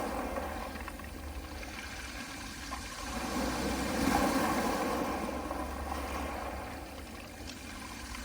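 Small sea waves washing onto a pebble beach in a slow swell that builds to a peak about four seconds in, then draws back, over a steady low rumble.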